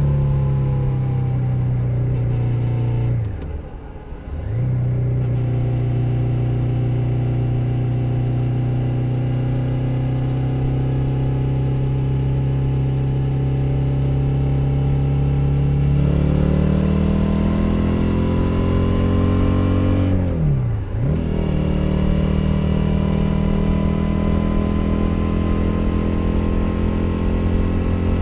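Stock 2021 Suzuki SV 650's 645 cc V-twin engine running under way, picked up close from under the seat. It holds a steady note, then accelerates with a rising pitch about sixteen seconds in. The engine sound briefly drops out twice, about four seconds in and about twenty-one seconds in, typical of gear changes.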